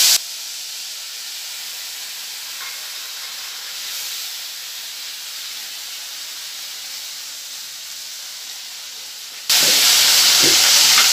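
Ginger-cumin paste frying in hot oil in a kadai: a steady sizzling hiss that turns much louder about a second and a half before the end.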